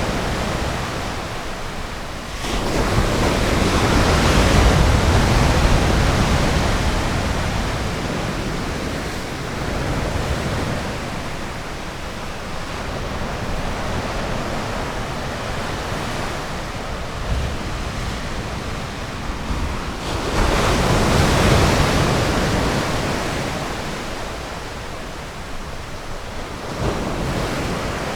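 Ocean surf washing onto a beach: a steady rush of noise that swells louder as waves break, about two and a half seconds in and again about twenty seconds in.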